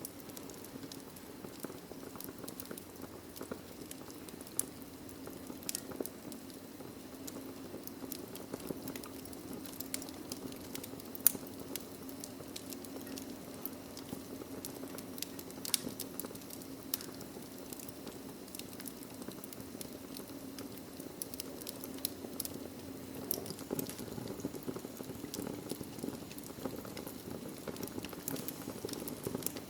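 Wood fire burning in a fireplace: a steady low hiss with irregular sharp crackles and pops from the logs, one loud pop about eleven seconds in.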